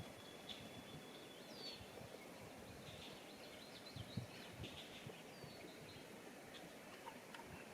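Faint, scattered bird chirps over a quiet natural background, with a thin steady high trill fading out in the first second and a half and a few soft low knocks.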